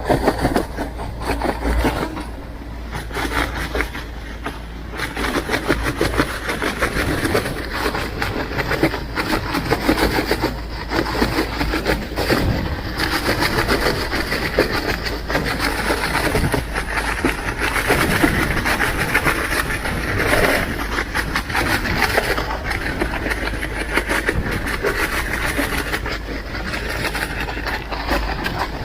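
Fishing boat's engine running with a fast, steady chugging, mixed with the rush of wind and water in a rough sea.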